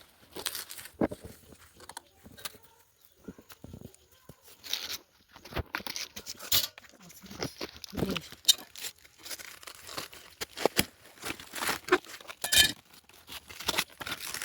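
Irregular tearing, crunching and rustling noises, a rapid uneven series of sharp snaps and scrapes with no steady rhythm.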